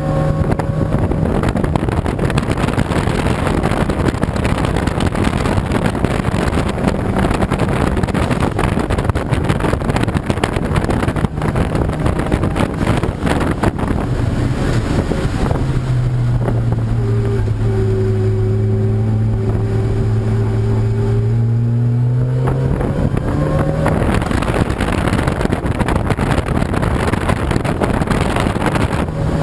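Racing car engines running loud and continuous during a circuit qualifying session. From about halfway through, one engine holds a steady note for several seconds, then its pitch rises as it revs up.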